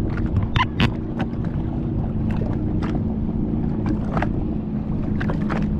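Watercraft engine droning at a steady pitch, with wind rumble on the microphone and scattered short sharp knocks or slaps.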